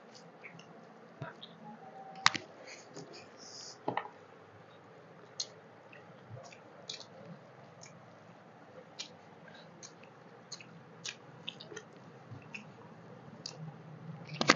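Close-miked mukbang eating sounds: chewing of rice and chicken curry eaten by hand, with many short wet mouth clicks and smacks scattered throughout.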